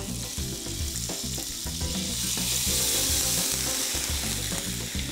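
Whole yellow croaker and aromatics shallow-frying in oil in a wok: a steady sizzle that swells about two to three seconds in, then eases slightly.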